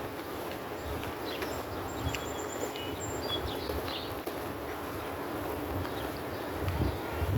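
Outdoor ambience: a steady low rumble with a few short high-pitched chirps between about one and four seconds in.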